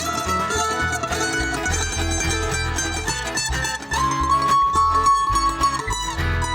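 Live bluegrass band playing an instrumental break: quick plucked-string picking over a steady bass line, with one long held high note about four seconds in.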